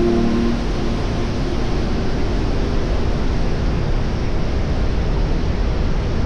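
Steady wind and road rush on the microphone of a moving electric motorcycle, with no engine sound.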